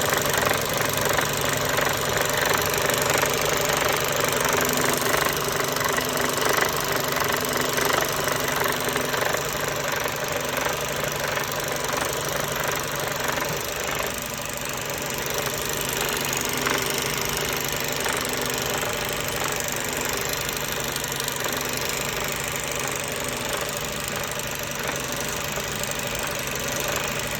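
Mercedes-Benz Euro 5 truck diesel engine running with an abnormal, rapid knocking. A technician traces it to the area around the high-pressure pump and air compressor, where something is leaking. The sound is a little louder in the first half.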